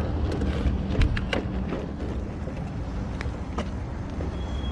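A vehicle engine running with a steady low rumble, with a few sharp clicks or knocks, the loudest about a second in.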